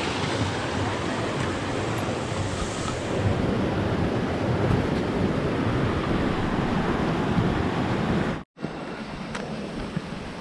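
Steady rush of a mountain stream's water over rocks. It cuts off abruptly about eight seconds in and comes back fainter, with a few light clicks.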